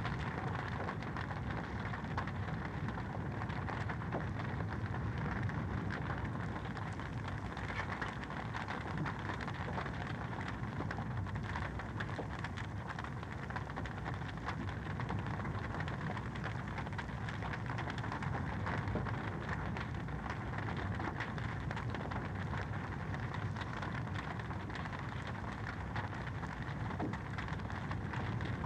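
Fireplace fire crackling steadily: a dense run of small pops and snaps over an even low rush.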